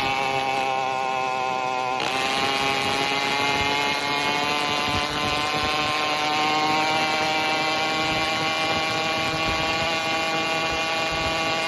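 Phantom 85 two-stroke motorized-bicycle engine running with no exhaust pipe fitted, under way at a steady speed, its pitch edging up a little during the first few seconds and then holding.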